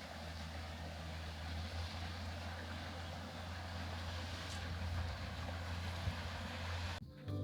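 A steady low engine drone with an even rush of road or wind noise, growing slightly louder, that cuts off abruptly about seven seconds in.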